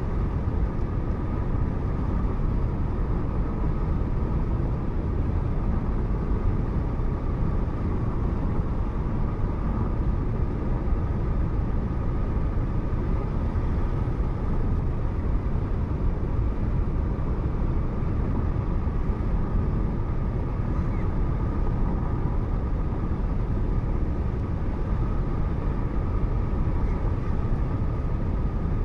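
Steady road and engine noise of a moving car, picked up by a dashcam inside the cabin, with a faint steady whine over the low rumble.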